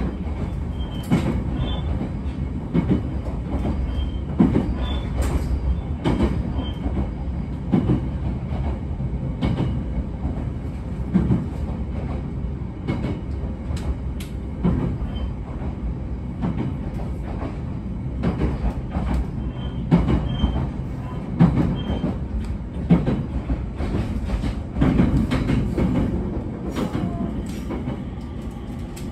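Abukuma Express AB900 series electric train running at speed, heard from inside the passenger car: a steady low rumble of wheels on rail with a knock over the rail joints about every one and a half to two seconds, a little quieter near the end.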